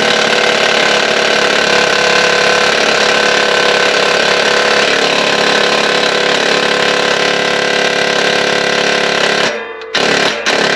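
Impact wrench hammering continuously on a seized exhaust bolt for about nine and a half seconds without breaking it loose, then several short trigger bursts.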